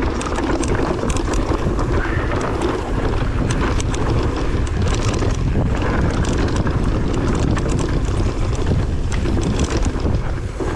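Heavy wind buffeting the microphone on a fast downhill run, a steady low rumble with scattered clicks and rattles through it.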